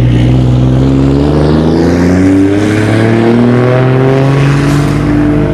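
A car engine running loud and revving up, its pitch climbing through the middle and dropping near the end.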